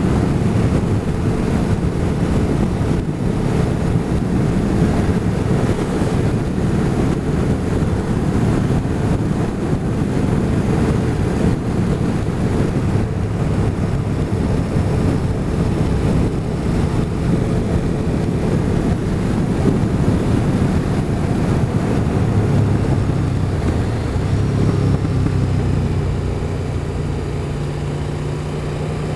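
Motorcycle engine running steadily on the road under heavy wind rush on the microphone. Near the end the wind eases a little and the engine hum stands out more clearly.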